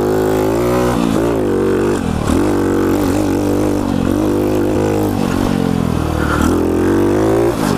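Pit bike engine revving up and down as the throttle is worked while riding, its pitch dropping sharply about two, five and seven and a half seconds in.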